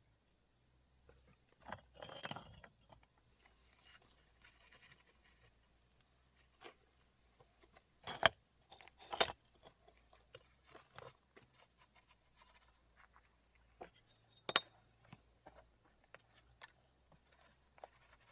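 Scattered small clicks, scrapes and light knocks, with sharper knocks about eight, nine and fourteen and a half seconds in.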